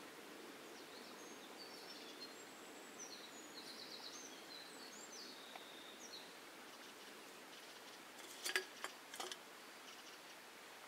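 Quiet woodland ambience with faint, high bird chirps, then a quick cluster of sharp clicks or knocks about eight seconds in.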